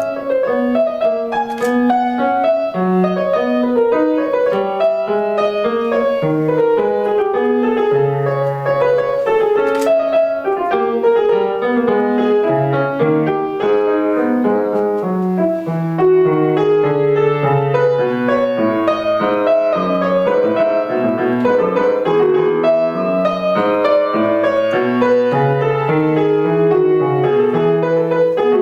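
Piano playing a classical piece: a continuous flow of quick notes in both low and middle registers.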